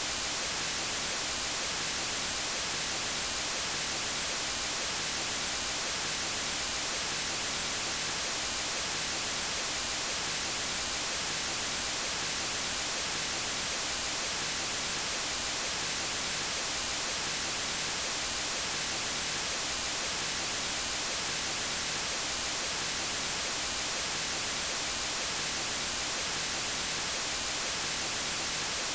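Steady white noise: an even hiss across all pitches, brighter in the treble, with no changes.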